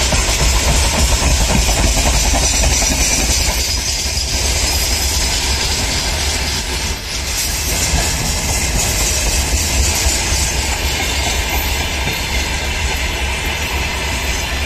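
Freight train of open-top gondola wagons rolling past, a steady loud rumble and clatter of steel wheels on the rails.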